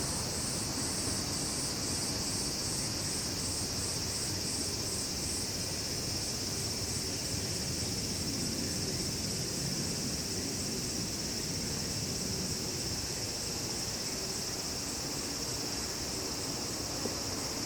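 Summer insect chorus: a steady high-pitched drone with a pulsing high chirp, about two and a half a second, that fades out about five seconds in. Underneath is a low rumble.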